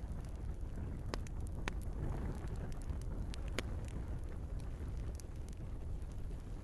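Wood fire burning in a fireplace: a steady low rumble of flames with scattered sharp crackles and pops, the loudest pop about three and a half seconds in.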